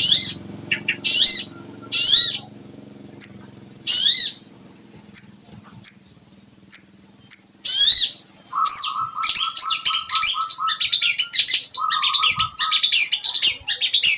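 Long-tailed shrike (cendet) singing: single sharp high chirps, each falling in pitch and repeating less than a second apart. About eight and a half seconds in, it breaks into fast, continuous chattering song with a lower rapid trill running beneath it.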